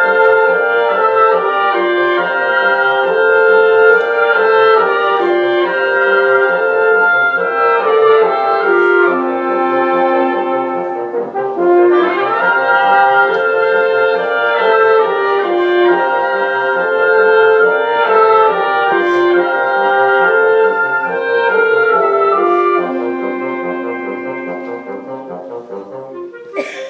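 Instrumental ensemble playing held, overlapping chords over a steady repeating low pulse. It grows quieter over the last few seconds.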